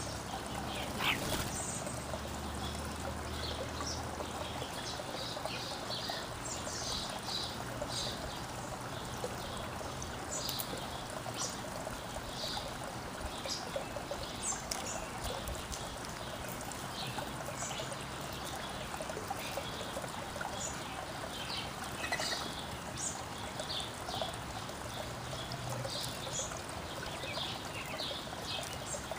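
Many short, high chirps and calls of backyard songbirds, scattered throughout over a steady rushing hiss.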